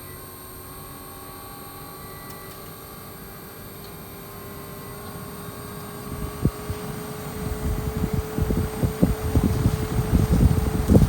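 Toshiba RAS-5066AD air conditioner running, a steady fan hum with faint steady tones. From about six seconds in, gusty airflow starts buffeting the microphone in growing, irregular thumps.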